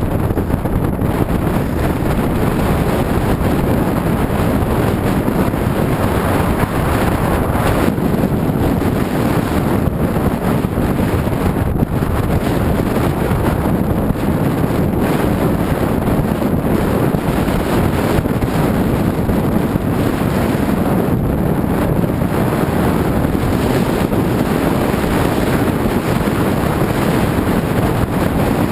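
Steady wind noise rushing over the camera microphone, with no breaks.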